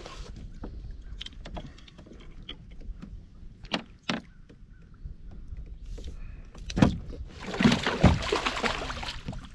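Sounds of a small catfish being landed at a kayak. There are a few sharp knocks on the hull, then about two seconds of loud splashing and thrashing near the end.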